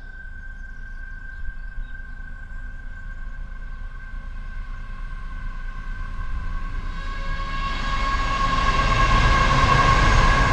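Coal train approaching, its low rumble growing steadily louder, with two steady high-pitched tones running over it.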